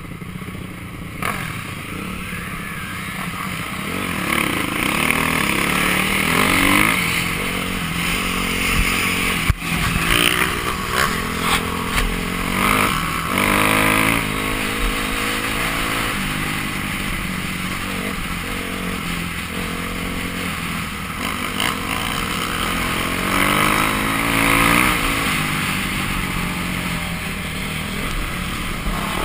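Dirt bike engine revving up and falling back again and again as the bike is ridden along a trail. One sharp knock sounds about a third of the way through.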